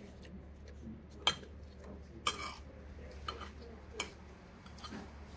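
Cutlery clinking against a plate while eating: about five separate sharp clinks spread over the few seconds, one of them ringing briefly.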